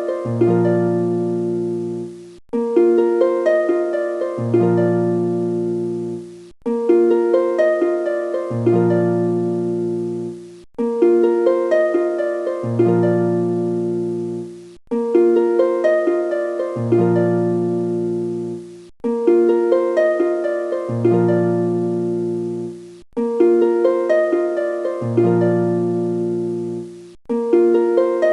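Background music: a short loop of plucked, harp-like notes that repeats about every four seconds, with a brief break before each repeat.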